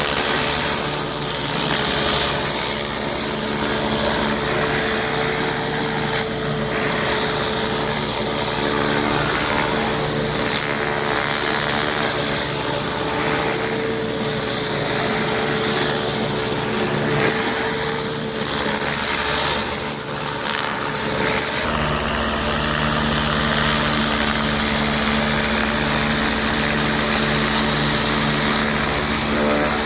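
Pressure-washing equipment running steadily: an engine-driven washer hums under the hiss of a water spray. About two-thirds of the way through, the sound changes abruptly to a lower, steady hum.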